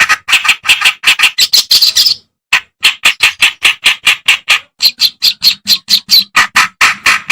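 Kerak basi, a reed warbler, singing a loud, fast run of short harsh notes at about five or six a second, with a brief pause a little after two seconds in.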